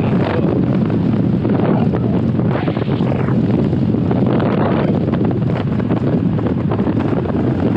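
Wind rushing over the microphone of a helmet-mounted GoPro on a moving motorbike: a steady low rumble of wind noise.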